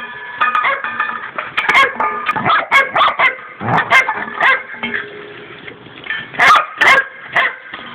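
Border collie barking and yipping over and over, demanding his dinner, with several sharp clattering knocks in between as he tosses his food dish about.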